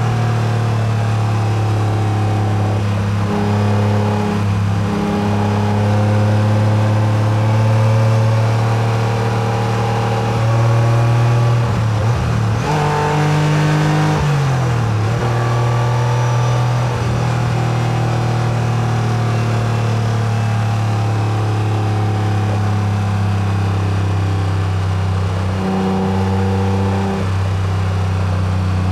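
1990s Acura NSX's V6 engine pulling at a steady, moderate pace, its note mostly level, with road noise underneath. Its pitch changes briefly a few times: around four seconds in, a longer dip and rise about halfway through, and again near the end.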